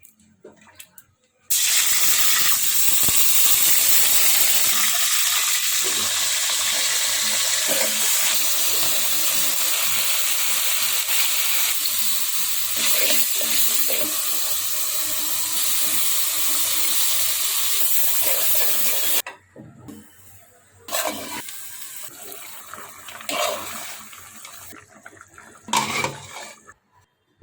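Water running from a tap into a sink, a steady loud rush that stops abruptly after about seventeen seconds. Quieter, intermittent sounds follow.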